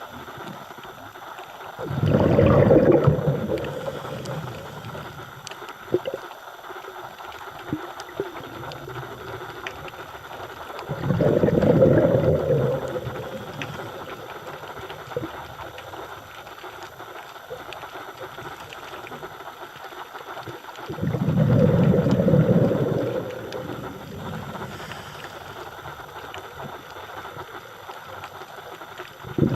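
Scuba diver's exhaled breath bubbling out of the regulator underwater, three bursts about ten seconds apart, each lasting about two seconds. Faint scattered clicks and a low hiss fill the quiet between breaths.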